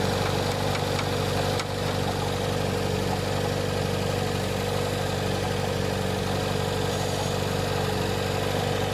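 Car engine idling steadily with the air-conditioning compressor engaged.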